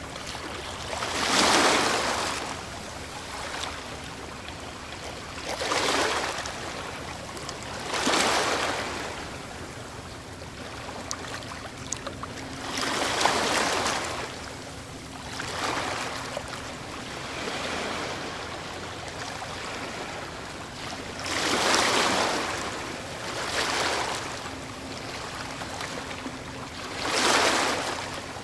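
Ocean waves breaking, one after another: about eight surges of surf, each swelling and falling away over a second or two, over a steady wash of water.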